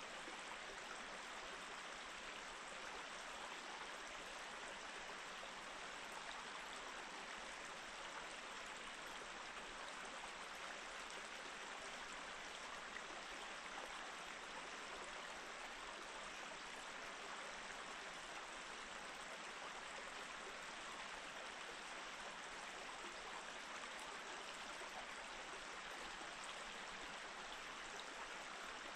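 Small mountain stream flowing steadily over rocks, a constant even rush of water.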